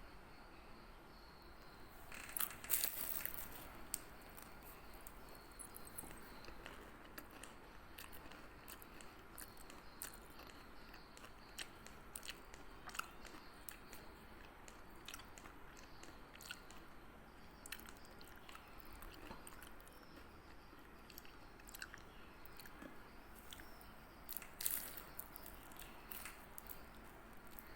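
Faint scattered clicks and crunching noises, with louder clusters about three seconds in and again near the end.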